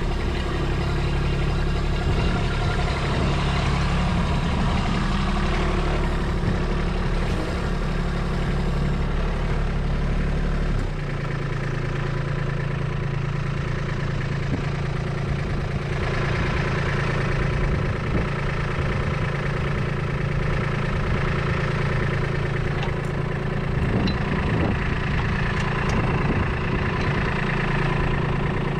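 Kubota B2601 compact tractor's three-cylinder diesel engine running steadily; about eleven seconds in its deepest rumble drops away while the engine keeps going.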